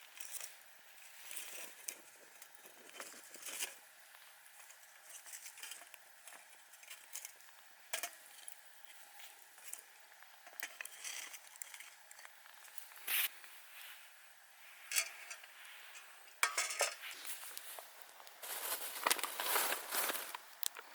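Camp gear being handled: scattered light clinks and clicks of metal utensils with rustling, growing busier with a run of clatter and rustling in the last few seconds.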